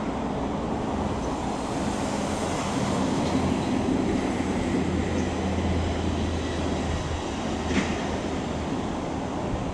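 MTR M-Train electric multiple unit approaching along the track: a steady running noise with a low hum that swells in the middle, and a single sharp clack near the end.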